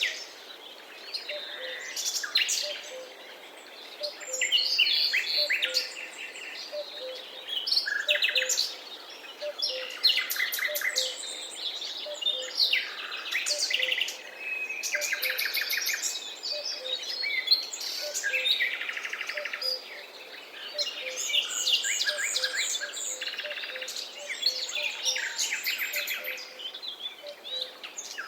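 Several forest songbirds singing and chirping at once, with quick trills and warbled phrases overlapping one another without pause. A faint low note repeats steadily beneath them.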